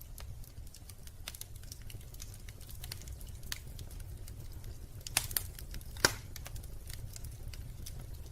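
Wood fire crackling in a fireplace: a steady run of small snaps with a few louder pops a little past the middle, over a steady low rumble.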